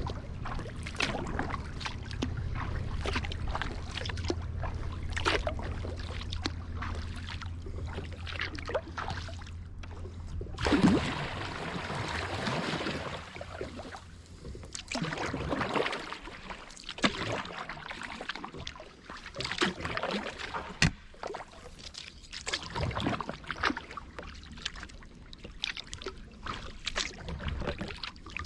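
Kayak paddle dipping and pulling through calm river water, with drips and small splashes from the blades. About eleven seconds in there is a longer, louder wash of water.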